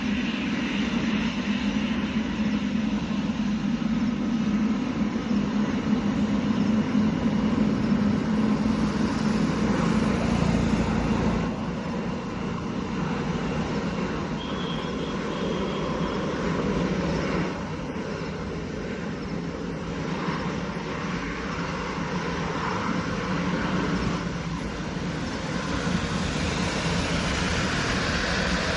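Boeing 777-300ER's twin GE90-115B turbofan engines running at takeoff power: a steady jet roar that drops in loudness about a third of the way in and again a little later.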